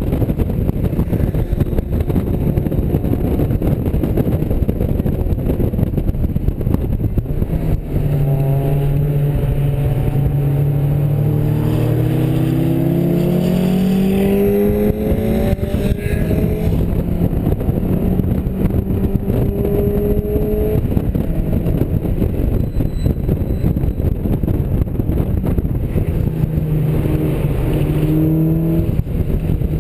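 Mazda MX-5's four-cylinder engine under load on track, heard from inside the open-top cabin over a heavy, steady rush of wind and road noise. About a quarter of the way in the engine note climbs steadily in pitch as the car accelerates, then holds steadier, with the engine note rising again near the end.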